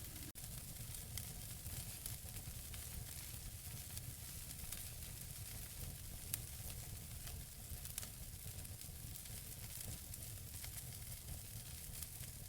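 Wood fire burning in a fireplace: a steady hiss of the burning logs with small crackles throughout, a louder pop about six seconds in and another near eight seconds, over a low rumble.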